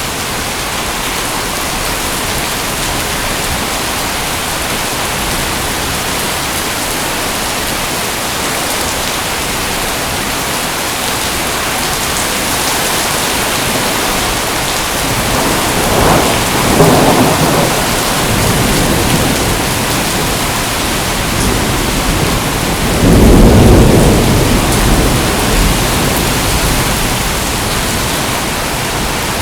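Steady heavy rain hissing, with two low rolls of thunder: one a little past halfway and a louder one about three quarters of the way through.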